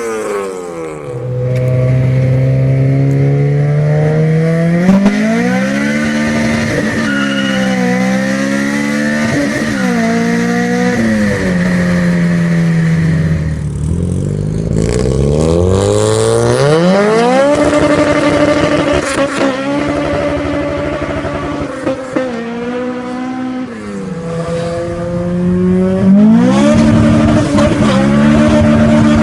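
Honda K20 2.0-litre four-cylinder engine revved hard, its pitch climbing and dropping again and again. About halfway through there is a short dip, then the revs climb again.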